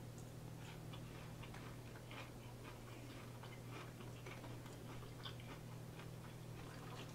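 Close-miked chewing of crispy fried food: soft, irregular crunchy clicks and mouth sounds, over a steady low electrical hum.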